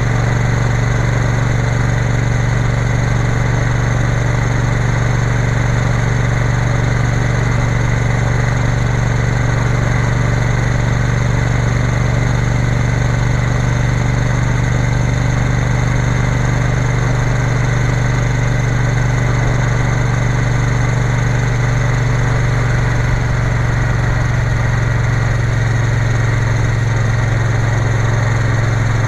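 Triumph Bonneville T120 motorcycle's parallel-twin engine running under way, a steady drone that barely changes in pitch.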